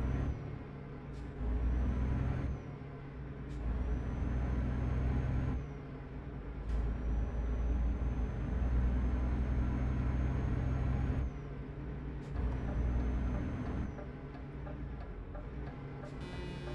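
Truck engine pulling through several gear changes, heard from inside the cab: loud stretches of engine sound, each cut off by a brief click at the shift and a quieter gap before the next pull, with a faint high whine that rises slowly in each pull.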